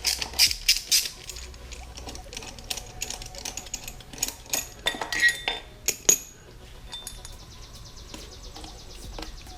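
Irregular metallic clinks and clicks of hand tools and small metal parts being handled, dense and sharp for about the first six seconds, then thinning out.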